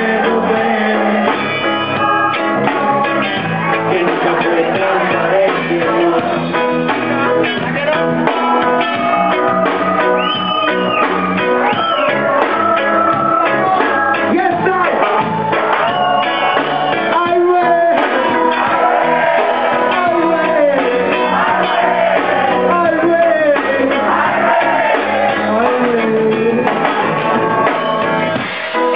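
Live reggae band playing a song, with guitar and what may be voices or instrumental lines over a steady groove; the sound is cut off in the highs, as from a low-quality recording.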